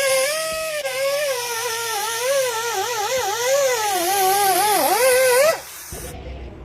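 Whine of an electric power tool's motor, its pitch wavering and dipping repeatedly as the tool is loaded, over a hissing noise; it stops abruptly near the end.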